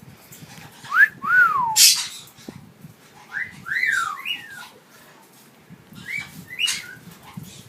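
Maximilian pionus parrot calling: short whistled calls that rise and fall in pitch, some with a harsh screechy edge, in three short bouts about a second, four seconds and six and a half seconds in.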